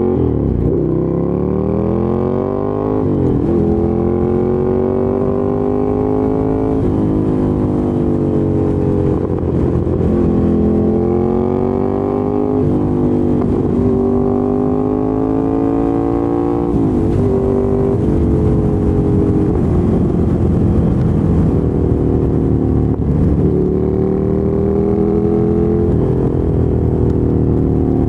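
Ducati Monster 797's air-cooled L-twin engine through a LeoVince LV-10 exhaust, heard while riding: the engine note climbs steadily under throttle and falls sharply at each gear change, over and over, as the bike pulls through the gears.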